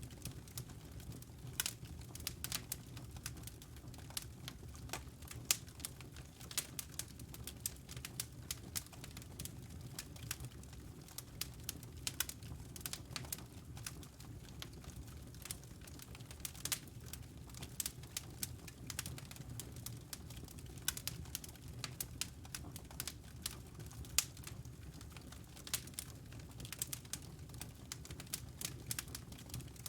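Wood fire crackling in a fireplace: many small irregular pops and snaps, a few louder ones, over a steady low rumble.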